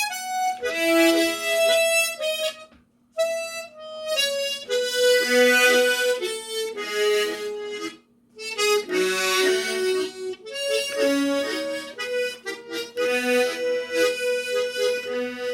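Solo harmonica playing a slow go-go melody phrase, with octave-and-fifth chords on the first beat and short bass notes between the melody notes. It comes in three stretches with brief breaks about 3 and 8 seconds in.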